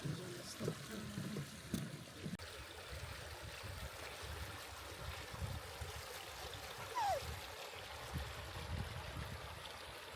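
Forest stream water running steadily, with a short falling whistle about seven seconds in.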